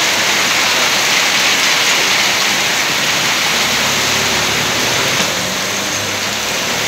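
Heavy rain pouring onto a paved street and parked vehicles: a loud, steady hiss of rainfall. Around the middle, a motor scooter passing on the wet road adds a low engine hum.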